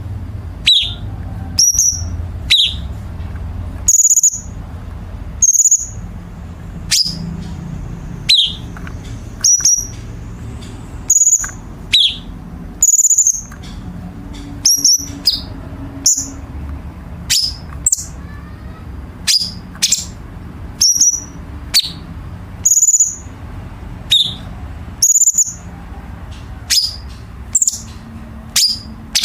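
Cucak cungkok bulbul giving sharp, piercing call notes over and over, roughly once a second, each a quick high note that drops in pitch; these are the 'tembakan' shots of a masteran tutor recording used to teach songbirds. A low steady hum lies underneath.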